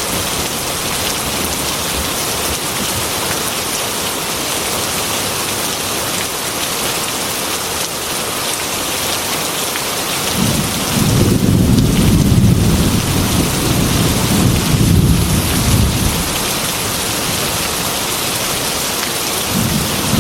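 Heavy rain beating steadily on a glass window. A long low roll of thunder rumbles through the middle for about six seconds, and another begins near the end.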